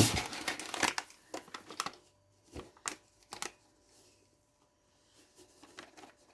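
Crinkling and rustling, then a few light clicks, as corn flour is spooned out for the chicken marinade; the rustling is densest for about the first two seconds and thins to a few scattered clicks.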